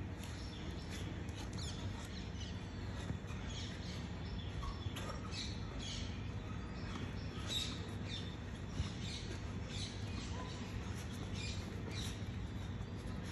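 Birds chirping in short, irregular calls over a steady low background hum.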